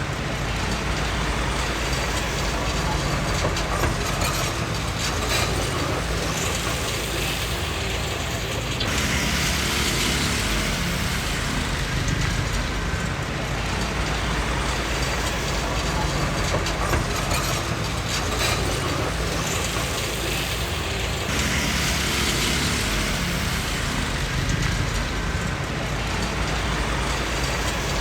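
Komatsu D20P crawler bulldozer working: its diesel engine running steadily with the steel tracks clanking. Twice, about a third of the way in and again near three-quarters through, a louder hissing, scraping noise rises over it for a few seconds.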